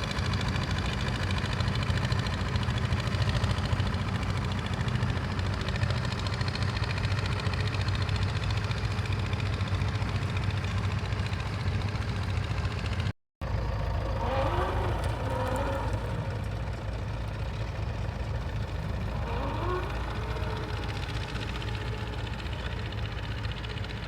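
Tractor engine running steadily. About halfway through, a brief dropout cuts it, and after that a slightly different steady engine sound carries on.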